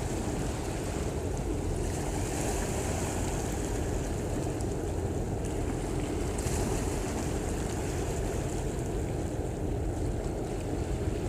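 Steady low rumble and water wash from a large container ship passing close by, with wind buffeting the microphone.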